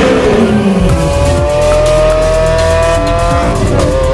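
Lamborghini Aventador's V12 engine revving. A brief falling note at the start gives way to a long, steady climb in pitch as the car accelerates, which drops back about three and a half seconds in.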